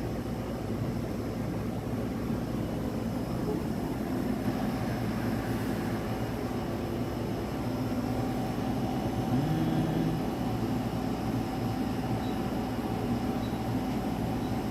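Portable air conditioner running on its lowest setting: a steady fan and compressor hum with a few faint steady tones.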